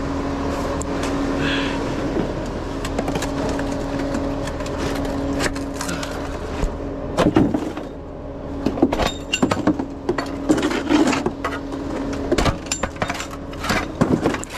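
Concrete pump running steadily with a steady engine hum, joined from about seven seconds in by a run of irregular knocks and clanks.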